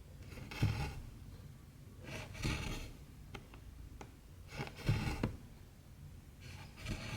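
Cotton embroidery thread being pulled through 14-count cross-stitch fabric: four scratchy swishes about two seconds apart, with a few faint ticks between them.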